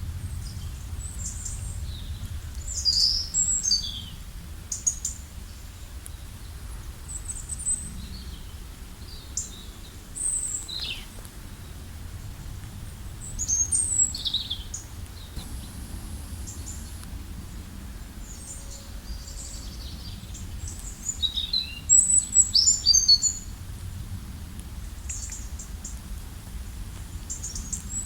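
Several songbirds chirping and calling in short, high, quick phrases, in clusters about three seconds in, around ten and fourteen seconds, and busiest a little past twenty seconds, over a steady low rumble.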